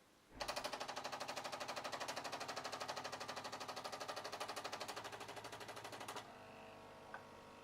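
Bosch Tassimo Vivy pod coffee machine running its pump in rapid pulses, about ten a second, as it brews. About six seconds in the pulsing stops and gives way to a quieter steady hum.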